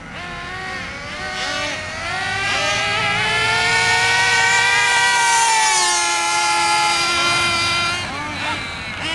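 Nitro RC truck's glow engine running at high revs with a high-pitched whine that climbs over the first few seconds, holds, then drops in pitch and fades near the end. The engine is tuned rich, not lean.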